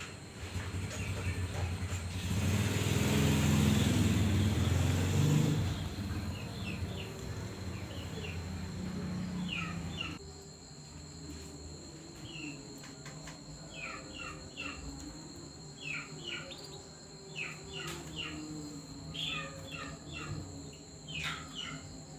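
Day-old nestlings begging with short high chirps in quick clusters, most of them from about ten seconds in. A loud low noise fills the first several seconds, and a steady high tone runs underneath.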